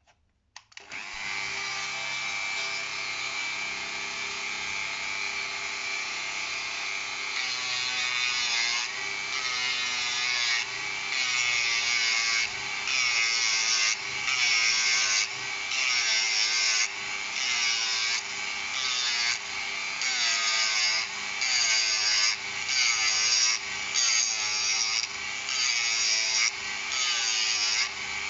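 Small hand-held rotary tool (бормашинка) starts about a second in and runs with a steady whine. From about seven seconds in it grinds down the 3D-pen plastic in repeated rasping strokes a little over a second apart, smoothing the repair.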